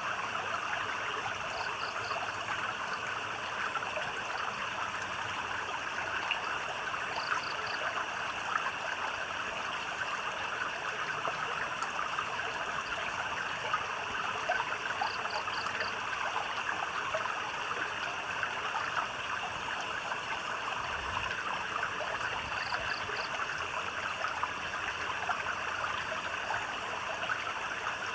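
Steady trickling and babbling of a stream at night, with a constant high drone of insects behind it. A short call of three or four quick pulses comes four times, roughly every seven seconds.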